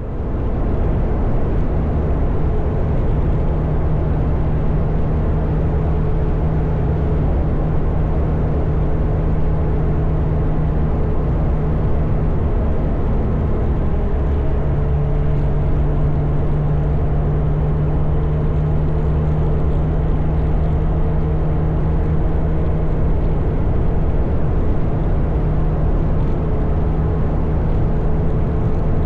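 Motorcycle engine running steadily at cruising speed with wind and road noise, as heard from on the bike. The engine note changes briefly about halfway through.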